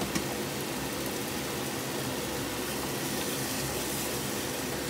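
Ground spice paste of shallots, garlic, chilli and kencur sizzling and bubbling in oil in a saucepan as it is stirred, over a steady low hum. A single short tap comes just after the start.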